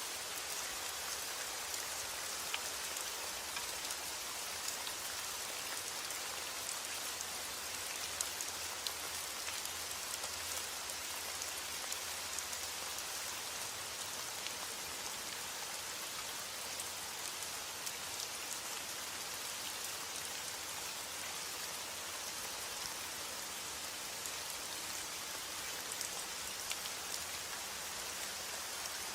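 Steady rain falling on a roof, an even hiss with many separate drops ticking through it. No thunder.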